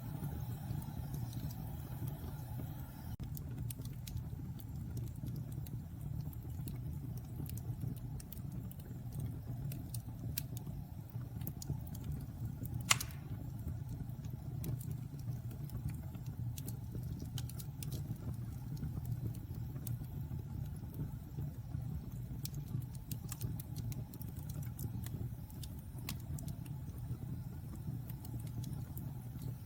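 Wood fire burning in a fireplace: a steady low rumble of flames with scattered crackles, and one sharp pop about halfway through.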